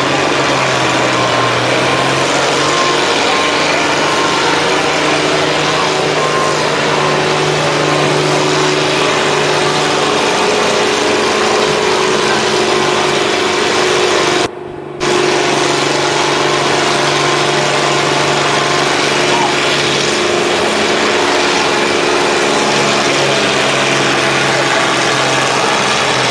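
Farm stock tractor's engine running loud and steady at high revs, as in a pull down the track. Its pitch holds nearly constant, and the sound cuts out for a split second about halfway through.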